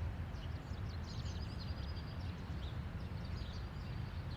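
Outdoor background ambience: small birds chirping in short quick notes over a low, steady rumble.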